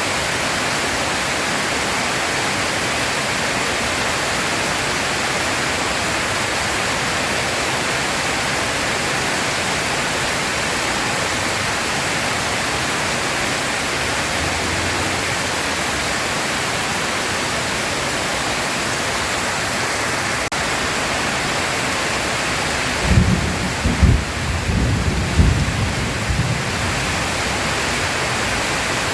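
Heavy rain falling in a steady hiss. Near the end, a few seconds of thunder rumble with several sharp peaks rises above the rain.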